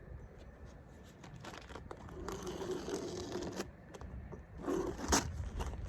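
A sheet of baking paper crinkling and rustling as it is handled, in irregular crackly stretches.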